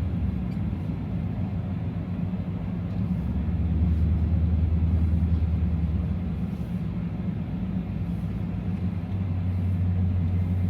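Ram TRX pickup's supercharged 6.2-litre V8 running at low speed, a steady low drone that swells and eases a little as the truck moves slowly.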